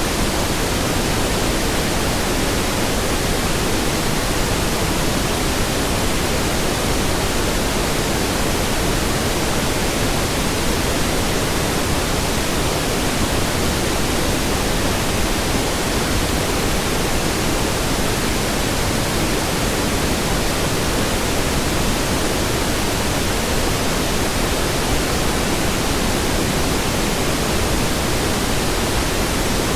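Steady pink noise: an even hiss across all pitches, without change.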